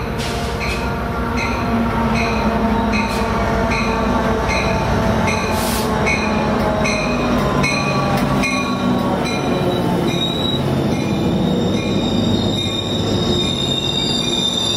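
Coaster commuter train's F59PHI diesel locomotive pulling into a station, its bell ringing about twice a second over the engine's hum. About two-thirds of the way in the bell stops and a high, steady wheel and brake squeal takes over as the train slows to a stop.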